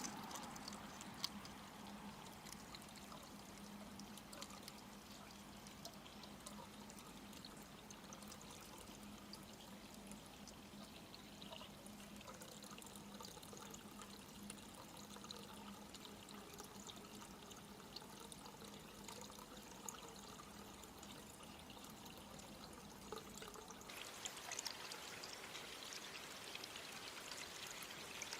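Faint steady hiss with a few small clicks; it turns brighter and a little louder about 24 seconds in.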